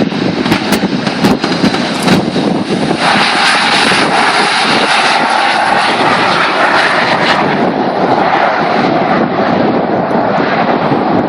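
Jet engine noise from a Boeing 737-500's CFM56-3 turbofans as the airliner lands. About three seconds in it swells into a steady, loud rush with a faint high whine, and holds there.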